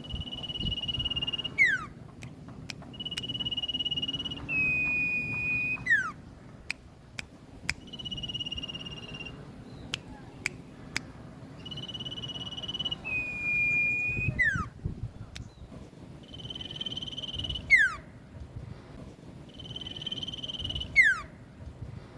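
Recorded songbird call, used as a lure to get caged birds to answer. It repeats every three to four seconds: a steady, buzzy high note held for about a second and a half, sometimes followed by a slightly lower one, then ending in a quick falling whistle. Scattered sharp clicks sound between the calls.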